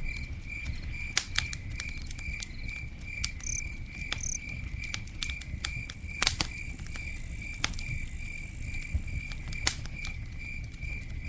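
Campfire crackling, with scattered sharp pops over a low rumble of burning wood. A cricket chirps in an even rhythm, two to three chirps a second, throughout.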